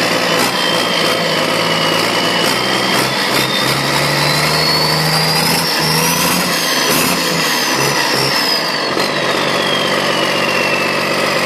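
Freshly rebuilt Cummins 5.9 B Series inline-six turbodiesel revved up and back down, its turbo whine climbing to a high pitch about six to seven seconds in, then falling away as the engine settles back.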